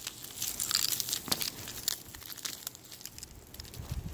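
Irregular crackling and crunching of frost and ice, with a sharper crack about a second in.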